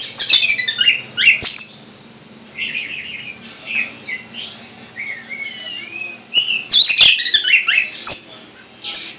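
A pet songbird singing, with loud bursts of sharp chirps and sweeping whistles near the start and again about seven seconds in, and softer warbling in between.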